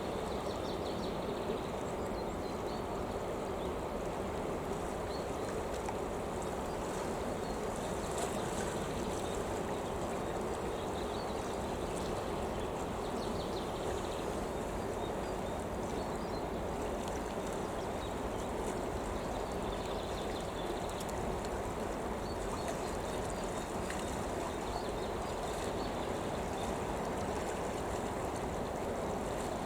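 Steady rushing noise of running water, with faint short high chirps now and then.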